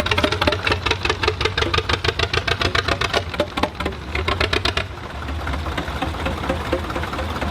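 Vintage Zetor 25 tractors' two-cylinder diesel engines running as they pass, with a sharp, even knock about ten times a second. After about five seconds the knocking fades and a smoother engine sound takes over.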